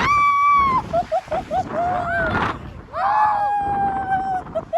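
Two long, high screams, the first just under a second and the second about a second and a half, with short bursts of laughter between and after them, from people spinning on a tire ride.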